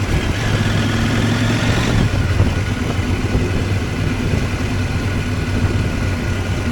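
CFMOTO 800MT's parallel-twin engine running at a steady, even speed.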